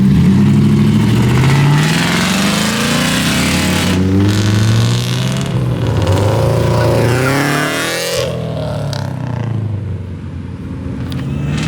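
Performance car engines accelerating past, the pitch climbing through the gears in the first couple of seconds, then several engines overlapping before the sound fades after about eight seconds.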